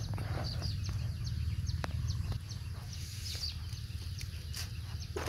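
Outdoor ambience: short, high, falling chirps of small birds scattered through, over a steady low rumble.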